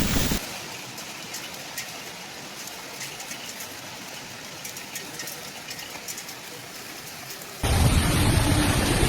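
Steady rain falling, an even hiss with scattered faint drop ticks. About seven and a half seconds in it cuts abruptly to a much louder, deep rumbling roar.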